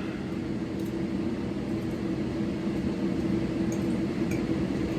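Steady low machine hum, like a fan or appliance running, with a few faint small clicks.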